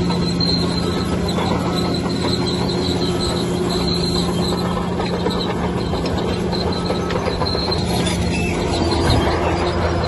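Bulldozer engine running steadily under load, with a high metallic squeal from its steel tracks coming and going.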